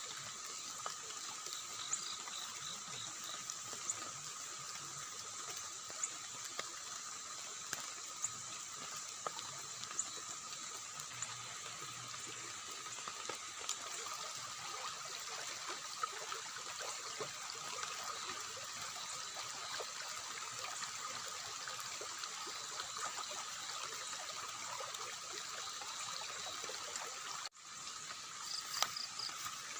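River water running steadily with a trickling rush, under a steady high-pitched drone, scattered faint ticks and two short pulsed chirps, one early and one near the end. The sound cuts out for an instant near the end.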